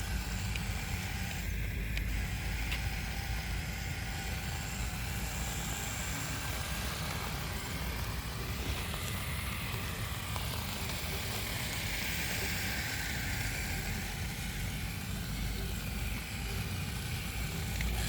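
A vehicle running steadily, with a constant low rumble and a faint higher whine that swells about two-thirds of the way through.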